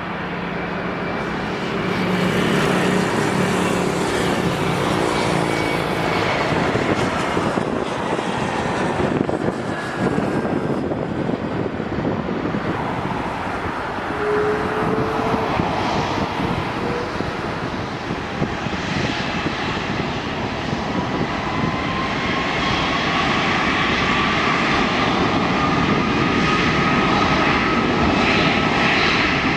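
Jet airliner engines running as an aircraft passes, a continuous rushing noise that swells about two seconds in and holds, with faint whining tones that slowly fall and, near the end, rise.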